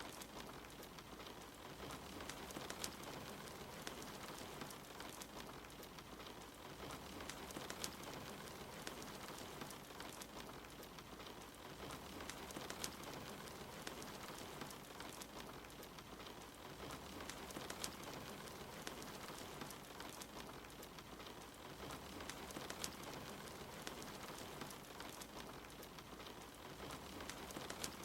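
Steady rain, with a wood fire crackling and popping now and then.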